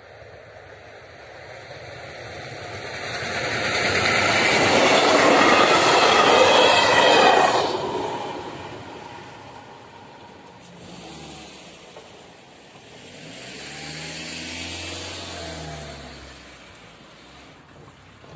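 Passenger train passing over a level crossing. Its wheel and rail noise swells to a loud peak about four to seven seconds in and fades by about eight seconds. Afterwards, car engines are heard pulling away over the crossing, rising in pitch as they accelerate, in two swells.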